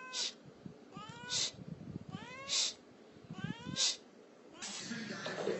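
A cat meowing three times, about once every second and a bit. Each meow rises and then falls in pitch and ends in a short rasp.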